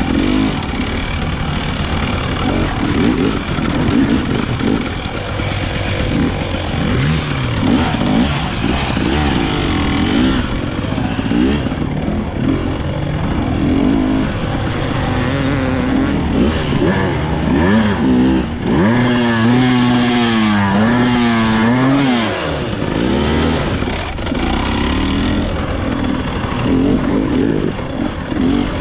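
Off-road motorcycle engine revving up and down over and over, the pitch rising and falling with the throttle, holding steadier for a few seconds past the middle.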